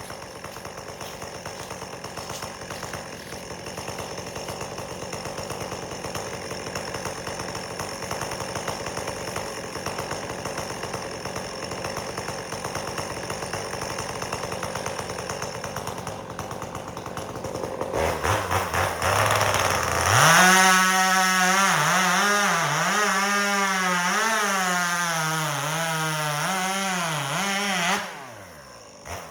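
Chainsaw running at low speed, then opened up to full throttle about two-thirds of the way in and held there through a cut, its pitch wavering up and down as the wood loads the chain. The engine note drops off sharply near the end as the saw comes out of the cut.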